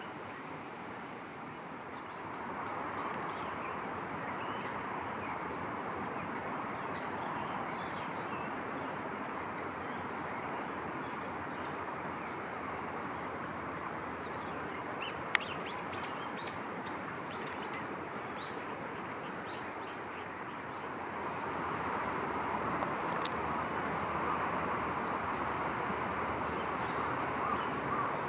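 Small birds chirping in short, scattered calls over a steady rushing background noise that grows louder about three-quarters of the way through, with one sharp click midway.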